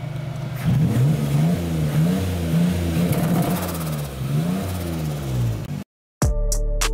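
Turbocharged Nissan 350Z's V6 engine idling, then revved up and down in a quick series of about half a dozen blips. It cuts off abruptly near the end, and music with plucked guitar-like notes follows.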